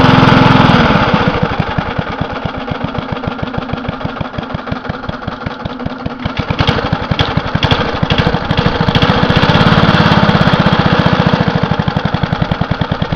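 A 1987 Briggs & Stratton 4-horsepower single-cylinder lawn mower engine running as its throttle is worked. It drops from high revs to a slow, uneven idle about a second in, with a few sharp clicks in the middle. It then revs up again and falls back near the end.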